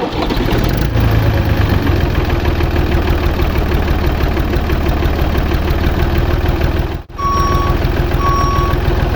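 Truck engine running steadily. After a short break about seven seconds in, a reversing alarm starts beeping, about one beep a second, over the engine.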